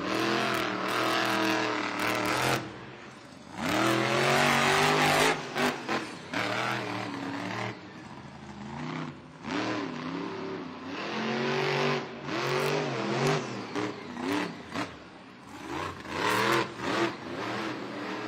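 Monster truck engine revving hard up and down again and again during a freestyle run, with loud bursts of noise and several sharp knocks and bangs.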